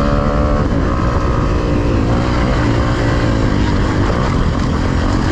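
Dirt bike engine running hard under throttle on a trail, its pitch rising and falling as the rider accelerates and eases off, with a steady rush of noise underneath.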